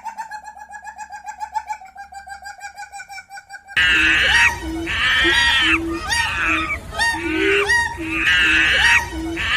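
Animal calls. First comes a rapid chattering call, many pulses a second and steady in pitch. After a sudden cut about four seconds in, a different animal gives loud, repeated harsh calls about once a second.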